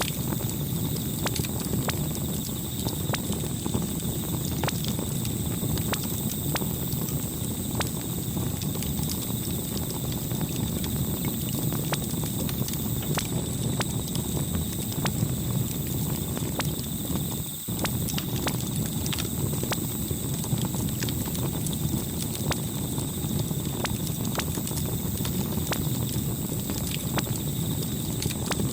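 Campfire burning: a steady low rush of flame with frequent sharp crackles and pops from the burning wood.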